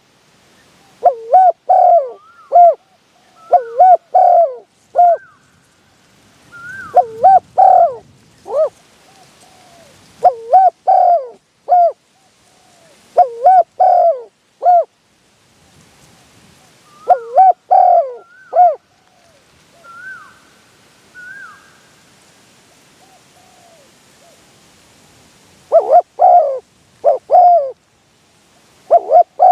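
Spotted dove cooing: phrases of three or four low, loud coos, repeated every few seconds, with a long pause from about two-thirds of the way in before the calling resumes near the end.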